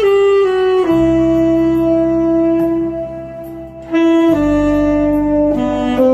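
Saxophone playing a slow melody over a backing track, holding one long note from about a second in that fades away before the next phrase starts a little past four seconds.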